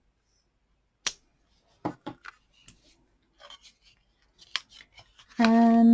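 Light clicks and taps of paper-crafting tools and stamps handled on a desk: one sharp click about a second in, then a scattering of softer taps. A drawn-out spoken "And" comes near the end.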